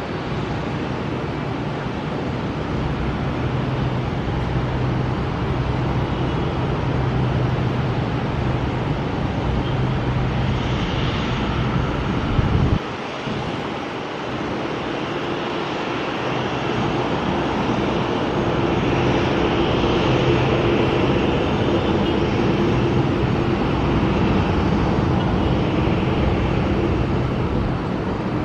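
Airbus A330-200 airliner with Pratt & Whitney engines on landing approach: steady jet-engine and airflow rushing noise with a low hum underneath. A brief thump about halfway through, after which the low hum drops away for a couple of seconds.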